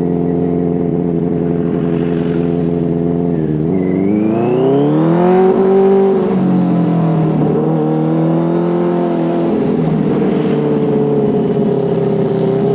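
Benelli TNT 600's four-cylinder engine running on the move. Its revs dip about three seconds in, climb over the next two seconds, ease back and hold, then dip and rise again near the end.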